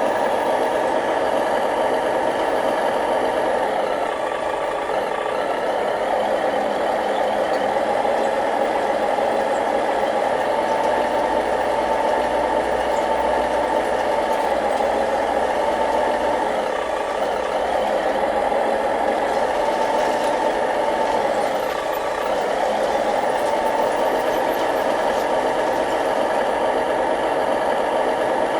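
Remote-control model construction machines running: a steady drone of small motors and gearing, with slight rises and falls in pitch through the middle.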